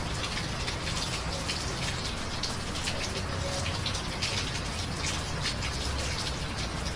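Steady rain, with many short, sharp drop hits over an even hiss and a low rumble underneath.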